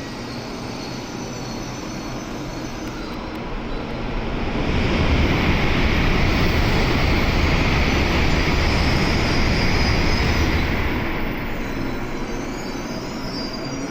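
Shinkansen train noise at the station: a broad rushing rumble swells about four seconds in, holds loud for around six seconds and fades again, like a train running past on an adjacent track.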